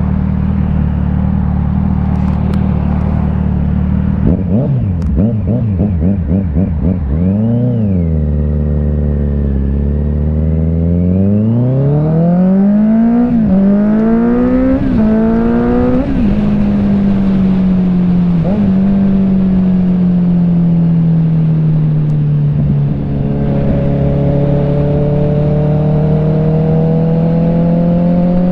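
Kawasaki Z900's inline-four engine running through an aftermarket CS Racing exhaust while riding. About a third of the way in it gives a short rev, then accelerates through three quick upshifts, each one a climb in pitch cut by a sudden drop. After that it holds a steady engine speed, rising slowly near the end.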